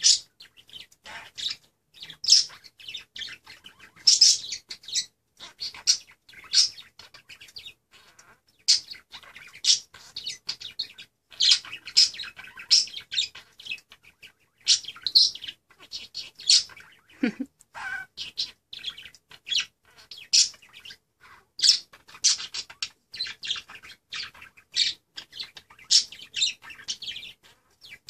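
Budgerigar chattering and warbling: a steady stream of quick, high chirps and clicks, with one sliding falling note about seventeen seconds in.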